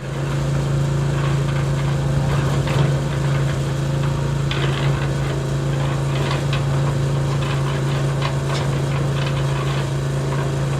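A small motor running steadily with an even hum, with light clicks and rattles over it.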